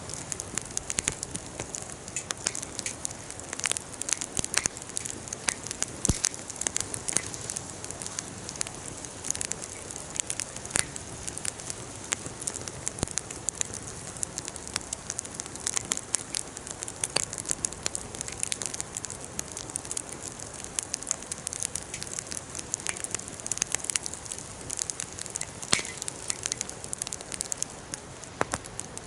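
Campfire burning steadily, with a continuous soft hiss and frequent sharp, irregular crackles and pops.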